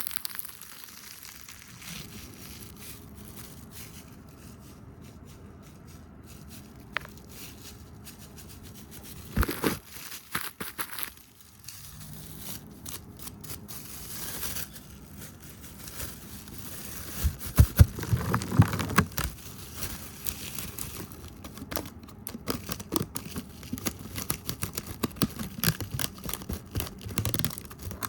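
Fast close-up ASMR trigger sounds: brushing, tapping and hand movements right against the microphone, heard as crinkly rustling with sharp taps. The taps grow louder and more frequent about two-thirds of the way through.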